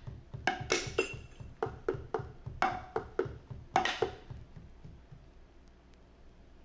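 Struck percussion playing loose, irregular hits, each note ringing briefly. The playing stops about four seconds in and dies away to faint hiss.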